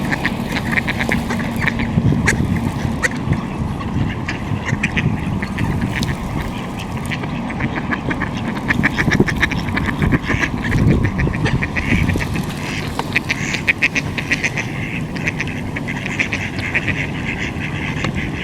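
A flock of ducks quacking continuously, many rapid overlapping calls, over a steady low background rumble.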